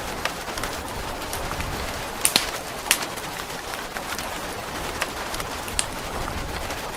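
Steady rain hiss with a wood fire crackling, giving a few sharp pops, the loudest a little after two seconds and near three seconds.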